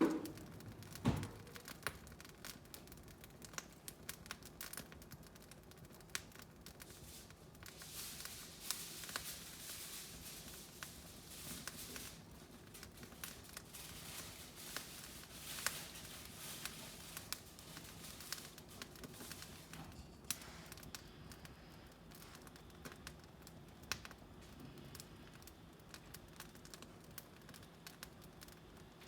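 Newly lit wood fire in a fireplace crackling, with sharp snaps and pops scattered throughout over a soft hiss of flame that swells for a while in the middle. One heavier knock about a second in.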